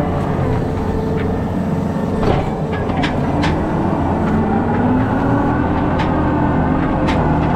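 John Deere 333E skid loader's diesel engine working under load, its pitch rising and falling, with a few sharp clanks around the middle and near the end.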